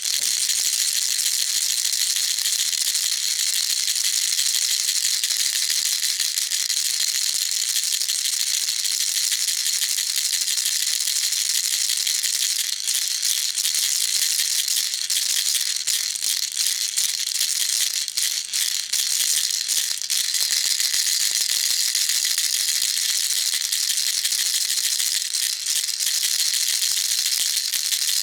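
Baby rattle shaken steadily without pause, a dense, continuous high-pitched rattle of many small beads.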